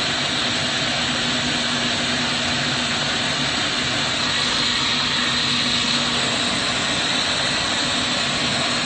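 Steady rushing roar of glassblowing torch flames and shop ventilation, with a low, even hum underneath.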